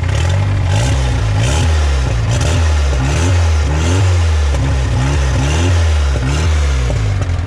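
Turbocharged VW AP engine in a Gol blipped repeatedly, about once a second, rising and falling in revs, with a short crackle at each peak. The engine is making an abnormal noise that the owner fears is a cracked engine; he traces it to a failing water pump.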